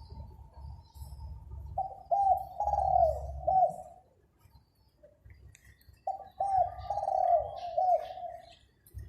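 Zebra dove cooing: two phrases of quick, hooked coo notes, each about two seconds long, from a newly caught bird that has only just begun to sing.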